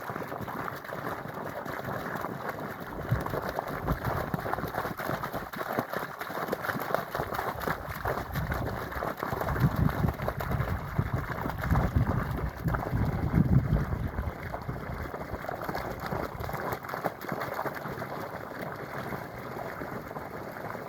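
Flowing water running and gurgling steadily, with heavier low surges of rushing water around the middle.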